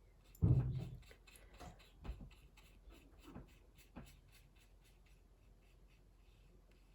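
A dull knock about half a second in, then a few lighter taps and soft scratchy strokes of a paintbrush working watercolour paint on paper.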